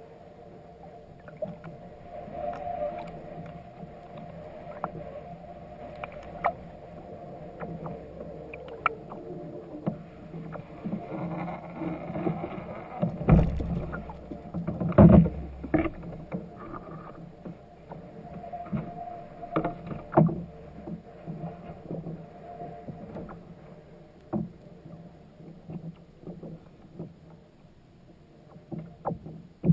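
Sounds aboard a fishing kayak on the water: water against the hull and scattered small knocks and clicks of gear on the boat, with two louder thumps about halfway through, a second and a half apart.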